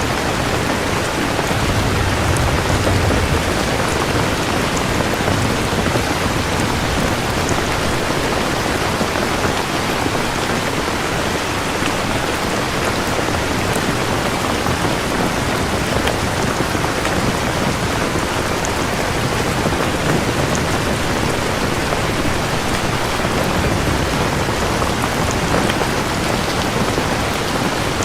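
Steady, even rain falling, with a low thunder rumble about two to three seconds in.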